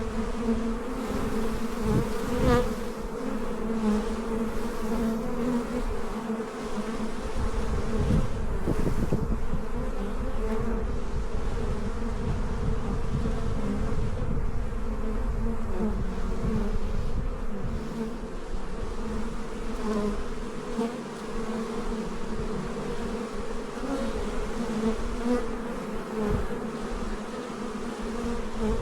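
Many honey bees flying around an active hive, a steady buzzing hum of overlapping wingbeats. A few low rumbles come through, about two seconds in and again near nine seconds.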